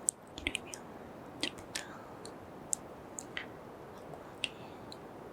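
Close-microphone kisses and wet lip smacks, about a dozen, coming irregularly over a faint steady hiss.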